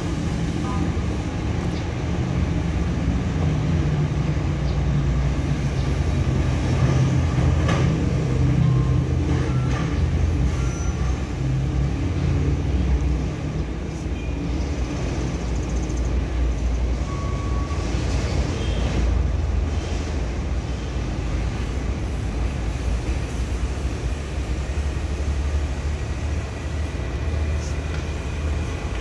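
Heavy truck diesel engine running steadily, with a few short sharp knocks.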